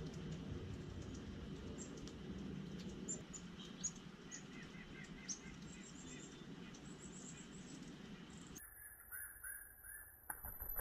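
Small wild birds chirping: many short, high chirps in quick runs over a steady low background rumble. About two-thirds of the way through the sound changes abruptly, the rumble drops away, and the chirps go on lower and clearer, with a couple of clicks near the end.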